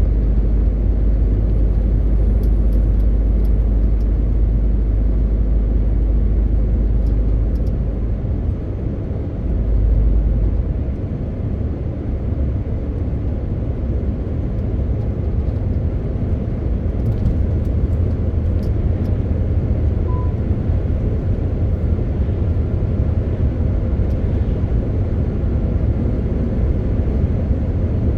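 MAN TGX 18.520 truck's six-cylinder diesel running under way with road noise, a steady low drone. About eight seconds in the deepest note drops away, comes back briefly near ten seconds, and then the drone settles a little higher in pitch.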